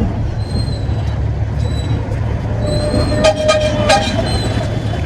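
Heavy trucks' diesel engines rumble steadily as vehicles roll off a ferry. About three seconds in, a brief loud high-pitched tone with a rattle sounds, such as a truck's brakes squealing. Short high chirps repeat through it.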